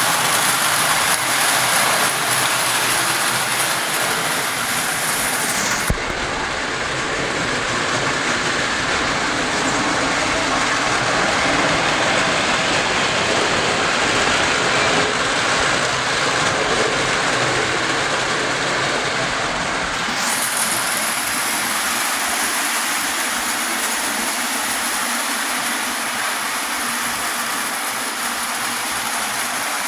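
Pre-war Lionel tinplate toy trains running on metal track: a steady clattering rumble of wheels and electric motors. About six seconds in the sound turns deeper with less hiss, and about twenty seconds in it changes back.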